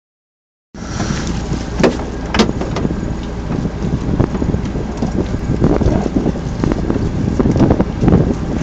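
Wind buffeting the microphone: a constant low rumble broken by irregular thumps and crackles.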